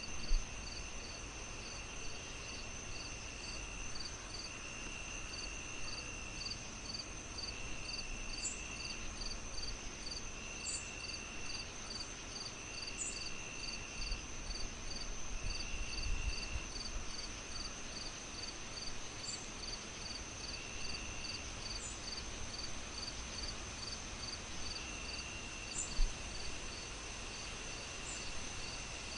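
Crickets chirping steadily, several at once. One repeats a high chirp about twice a second, another trills in stretches of a second or two. Underneath is a low hiss with a few sharp pops, two of them louder.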